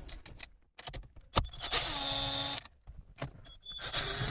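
Cordless power screwdriver with an 8 mm socket undoing the bolts that hold the MMI display bracket, running in two spurts of about a second each, the second near the end, after a sharp click about a second in.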